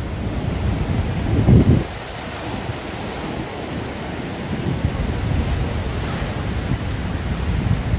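Heavy ocean surf from a big swell breaking along the shore, with wind buffeting the microphone; it swells louder for a moment about a second and a half in.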